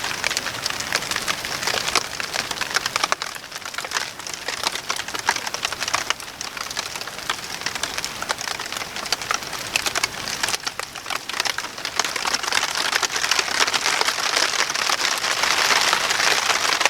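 Rain mixed with sleet falling steadily, a constant hiss dotted with many small sharp taps of drops and ice pellets hitting, growing a little heavier near the end.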